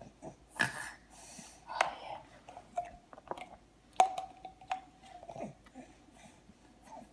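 Wet, irregular eating noises: lips smacking and mouth chewing on mashed zucchini and broccoli puree, with a short held hum about four seconds in.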